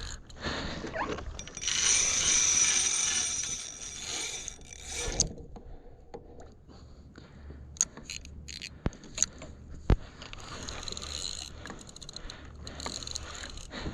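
Fishing reel working a hooked fish, with mechanical ratcheting and clicking from the reel. There is a louder noisy stretch of about three seconds near the start, and a few sharp clicks later.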